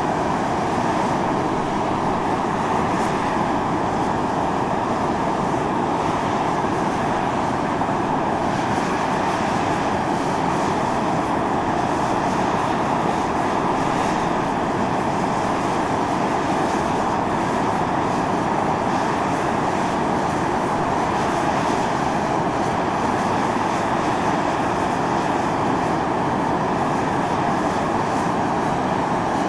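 Volcanic fumarole of Atosanupuri (Mt. Io) venting, with sulphurous steam and gas rushing out under pressure. It makes a steady, unbroken hiss, loudest in the middle range, that does not rise or fall.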